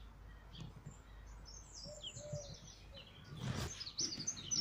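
Small birds in the trees chirping, a rapid run of short high chirps that builds up from about a second and a half in; the speaker takes them for sparrows. Soft walking steps sound underneath, with a brief rustle about three and a half seconds in.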